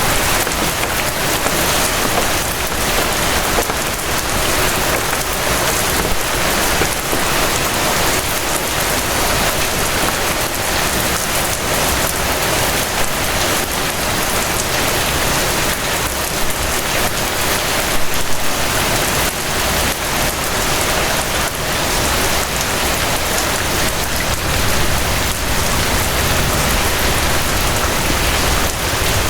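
Rain falling steadily: a dense, even hiss of drops with many fine individual drop taps, holding the same strength throughout.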